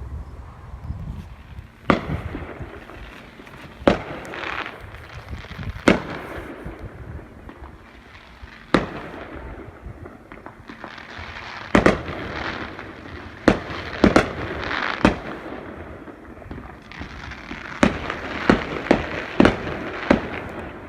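Fireworks display: sharp bangs of bursting shells, about every two seconds at first, then coming in quick clusters in the middle and near the end, with crackling between the bangs.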